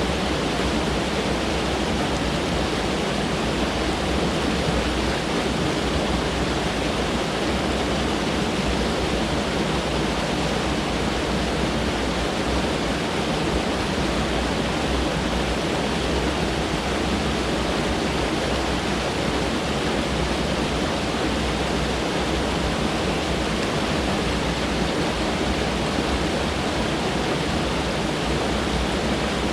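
A mountain stream flowing: a steady, even rush of water.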